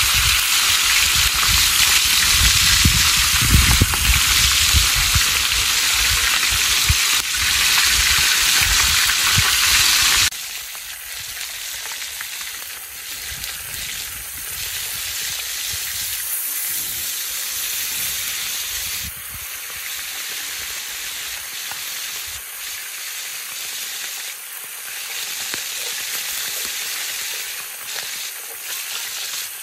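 Fish frying in hot oil, a steady sizzle. It is louder and fuller for about the first ten seconds, then abruptly drops to a softer sizzle.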